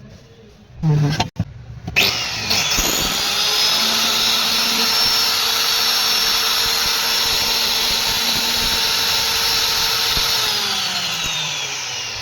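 Handheld electric wood cutter's motor, freshly fitted with a new field coil, briefly blipped and then switched on, spinning up quickly to a steady high whine as it runs free with no load. Near the end the pitch starts to fall as it winds down.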